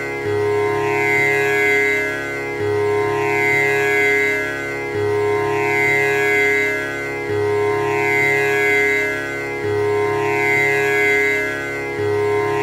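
Tanpura drone: its strings plucked one after another in an unbroken cycle that repeats about every two and a third seconds, each round starting with a low string, over a sustained buzzing drone rich in overtones.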